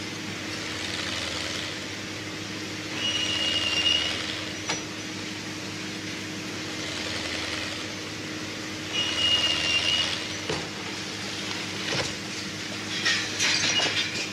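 Heavy machinery running with a steady engine hum. About every three seconds a rushing swell rises and falls, twice with a brief high squeal, and a cluster of knocks and clatter comes near the end.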